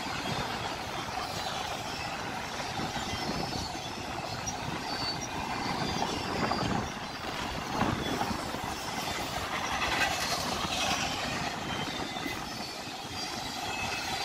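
Intermodal freight cars loaded with containers and truck trailers rolling past close by: a steady rumble and clatter of steel wheels on the rails, with a few louder knocks.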